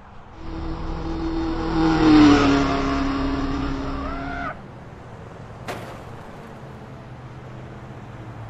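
A motor vehicle passing close, its engine getting louder and then dropping slightly in pitch as it goes by. It cuts off abruptly about halfway through to a quieter, steady low road hum, with a single click shortly after.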